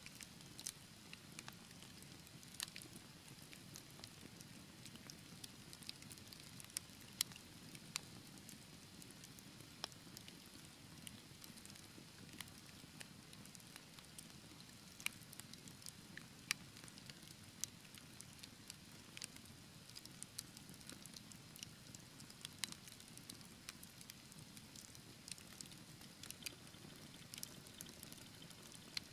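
Wood fire crackling: irregular sharp snaps and pops, a few louder than the rest, over a soft low rush of burning flames.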